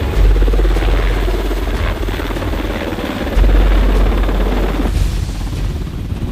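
A low mechanical rumble with a rapid flutter, swelling louder about a third of a second in and again about three and a half seconds in.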